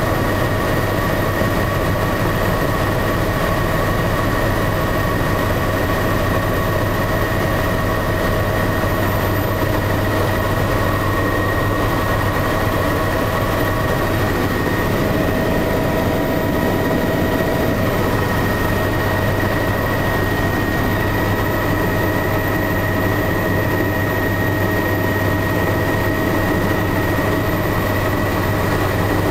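Tour helicopter running steadily: a constant low drone with several steady whining tones above it, holding level and pitch throughout.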